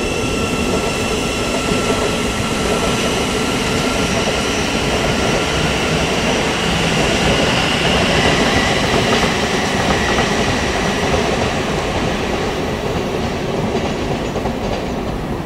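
Electric multiple-unit passenger train running past on the far tracks, its wheels clattering on the rails with a thin steady whine. The sound swells to its loudest about halfway through, then fades as the train pulls away.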